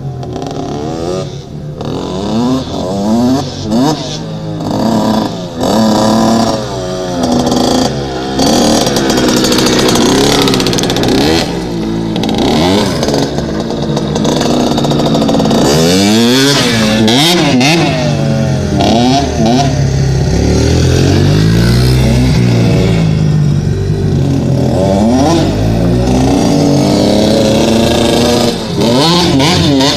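Dirt bike engines being ridden, revving up and down over and over, the pitch rising and falling with the throttle.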